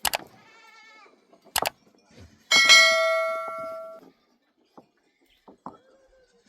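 A few sharp knocks, then about two and a half seconds in a metal object is struck once and rings with a clear, bell-like tone that fades over about a second and a half.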